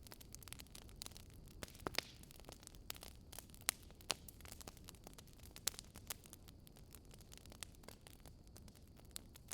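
Wood fire crackling: irregular sharp pops and snaps over a faint steady hiss, with a few louder pops in the middle.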